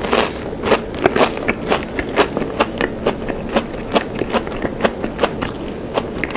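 Chewing a fried cream-cheese ball, its crispy breaded coating crunching at about three bites a second.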